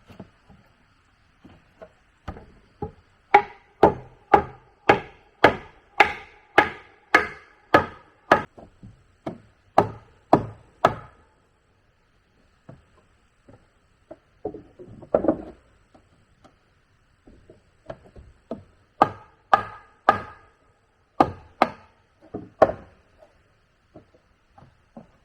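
A tool striking wood in a steady run of sharp blows, about two a second, with a ringing note in each hit. It pauses with a few scattered knocks, then strikes again in a shorter run near the end.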